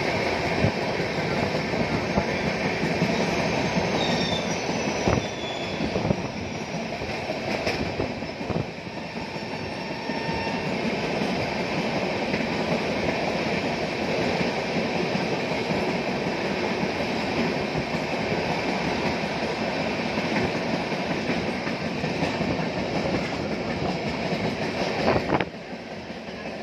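Steady rumble and clatter of train wheels running over rails, with a freight train of open box wagons passing close by, heard from a moving train. A brief high wheel squeal comes a few seconds in, and the noise drops suddenly near the end.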